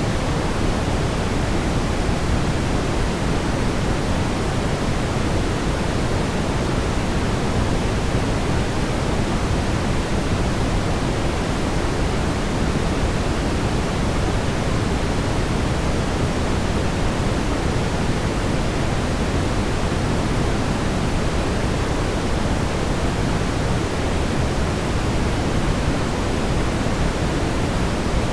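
Synthetic brown noise: a steady, even rumbling hiss weighted toward the low end, with no change or events.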